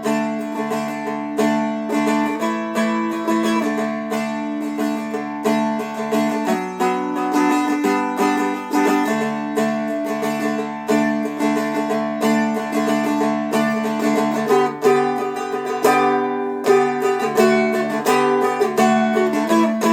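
A Seagull Merlin M4, a four-string diatonic dulcimer-style instrument, played with a pick through a chord progression. The chords ring one into the next, with the same low notes droning under every change.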